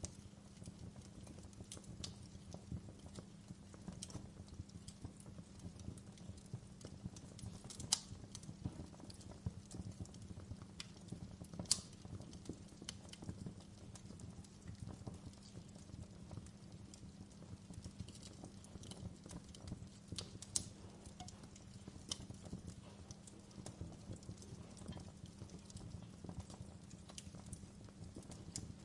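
Wood fire in a fireplace crackling, with irregular snaps and pops over a low, steady rumble of burning. A few pops stand out louder, one about eight seconds in, one near twelve seconds and one around twenty-one seconds.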